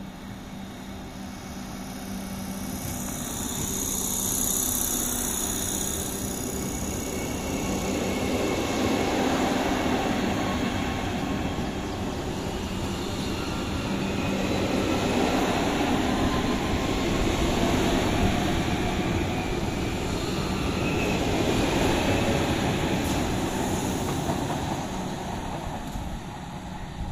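Vande Bharat Express electric trainset passing close by: a steady rumble of wheels rolling on the rails that grows over the first few seconds, runs on in swells as the coaches go past, and eases near the end as the rear car moves away.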